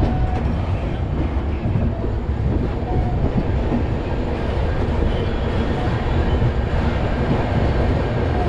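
Passenger express train coach running along a station platform on arrival, heard from its open doorway: a steady rumble of the wheels on the rails and running gear.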